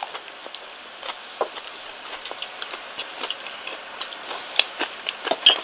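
Close-up chewing of crispy karaage (Japanese fried chicken): irregular small crunches and mouth clicks, several a second, growing louder and busier in the second half.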